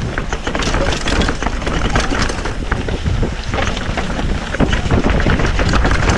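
Mountain bike riding over a rough dirt trail: tyres on dirt, with a constant rattle and knocking of the bike. Wind buffets the microphone with a heavy rumble.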